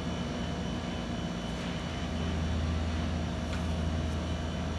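A steady low mechanical droning hum that swells a little in the middle.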